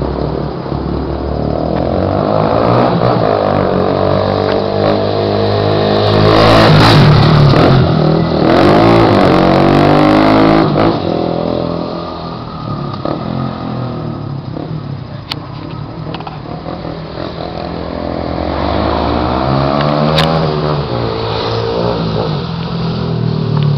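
Honda CG 150 Mix motorcycle's single-cylinder four-stroke engine, breathing through an aftermarket aluminium exhaust, is revved up over a few seconds and held high. It drops back to a lower, quieter run at about the halfway point, then is revved up again twice before the end.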